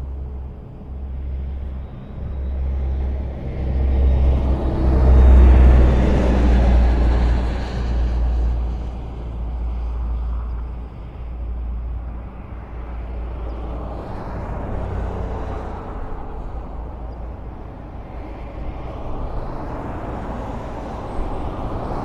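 Highway traffic: a continuous rumble of vehicles passing. A deep engine drone swells to its loudest about five seconds in and then eases back to a steady wash of tyre noise.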